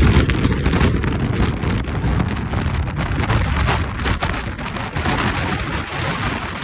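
Strong wind blasting across the microphone: a loud, steady rush heavy in the low end, with many small crackles running through it.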